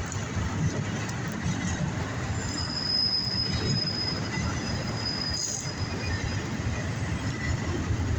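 Empty autorack freight cars rolling past with a steady rumble of wheels on the rails. A thin, high wheel squeal rises over it about two and a half seconds in and fades out about three seconds later.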